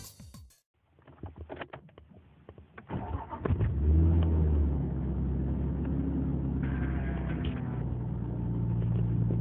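Nissan Skyline ECR33's 2.5-litre RB25 straight-six being started: brief cranking, then the engine catches about three and a half seconds in, flares up in revs, and settles into a steady idle.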